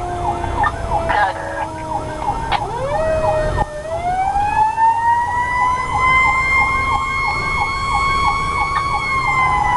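Fire engine sirens running while responding: a fast yelping siren repeats throughout, and about four seconds in a wailing siren winds up in pitch and holds high, sagging slightly near the end. A low rumble runs underneath.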